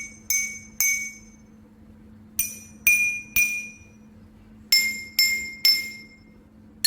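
Drinking glasses holding different amounts of water tapped with a spoon, each glass struck three times about half a second apart and ringing with a clear tone. Each glass rings at its own pitch, set by its water level: less water rings higher, more water lower.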